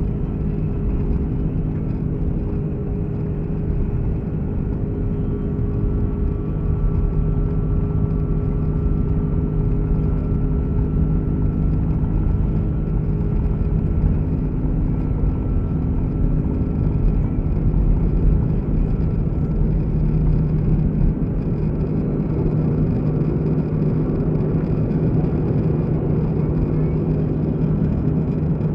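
Cabin noise inside an Airbus A330-300 jet airliner in flight: a steady drone of the engines and rushing air, with several steady hum tones. A faint higher whine comes in about six seconds in and fades out around twenty seconds.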